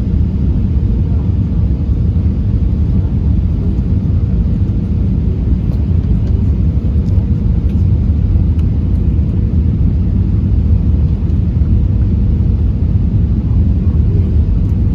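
Airbus A320 airliner on its landing approach: a steady low rumble with a faint constant hum above it.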